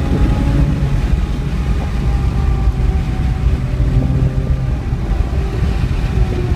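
BMW 335i's turbocharged straight-six engine pulling at fairly steady revs, heard from inside the cabin with a heavy low road and drivetrain rumble beneath it.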